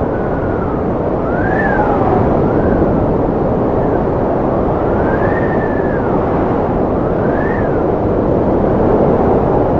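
Strong wind blowing: a steady rushing noise with a whistling howl that rises and falls in pitch several times.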